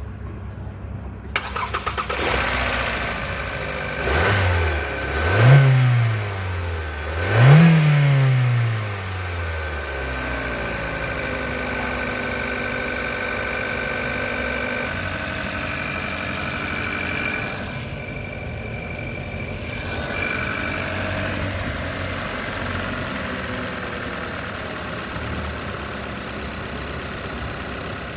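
2020 Hyundai Tucson engine starting about a second in, revved twice with the pitch rising and falling each time, then settling into a steady idle.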